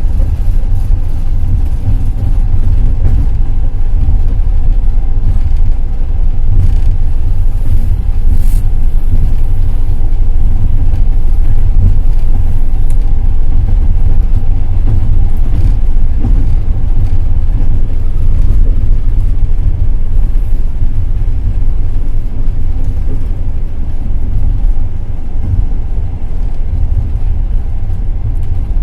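Passenger train running along the line: a steady, loud low rumble of the carriage and wheels on the rails, with a couple of brief sharp clicks about a quarter of the way in.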